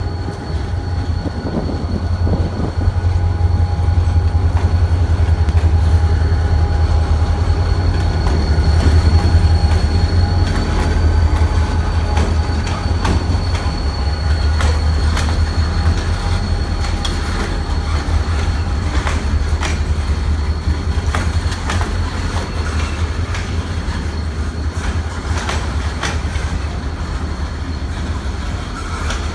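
Diesel freight locomotive passing at slow speed, its engine running with a deep steady drone, loudest in the first ten seconds and easing as it moves off. Its wheels click over rail joints, with a thin steady squeal from the wheels above.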